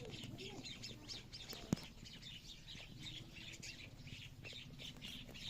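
Small birds chirping in a quick, continuous run of short chirps over a low steady hum, with one sharp click a little under two seconds in.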